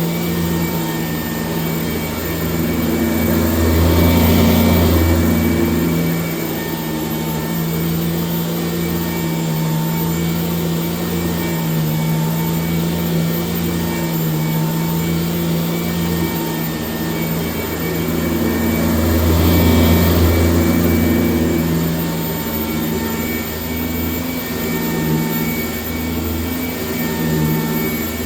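1996 Sanitaire S663 upright vacuum cleaner running steadily while vacuuming, a motor hum with a rushing air sound that swells louder twice, about four seconds in and again around twenty seconds.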